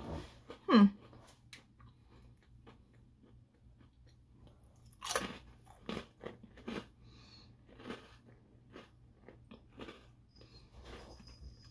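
A crisp coffee milk biscuit bitten with a loud crunch about five seconds in, then chewed with a run of quieter crunches. About a second in comes a brief, loud sound that slides sharply down in pitch.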